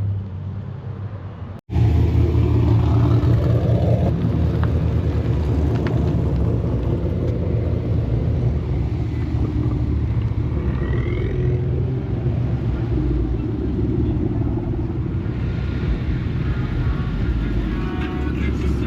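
Car engine running steadily with a low rumble, after a brief cut about a second and a half in.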